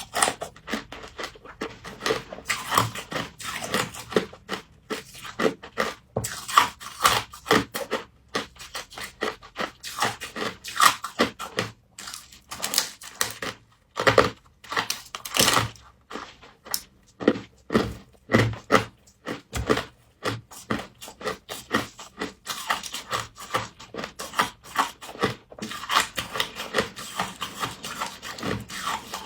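Close-up chewing and crunching of frost, a fast, irregular run of crisp crunches, several a second.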